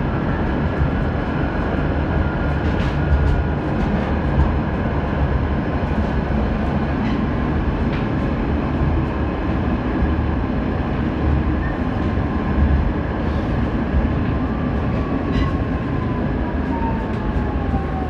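Tram running, heard from inside the car: a steady low rumble with scattered clicks, and a whine that falls in pitch over the last few seconds.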